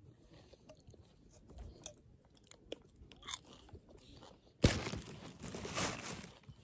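Potato chips being crunched and chewed, with small scattered crunches. About four and a half seconds in, a sudden loud noise close to the microphone starts and lasts about two seconds.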